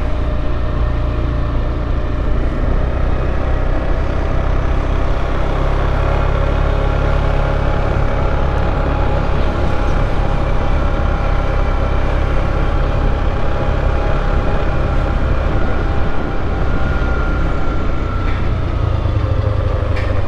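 Motorcycle engine running at a steady speed while riding, with heavy wind rumble on the microphone. The engine note drops slightly near the end.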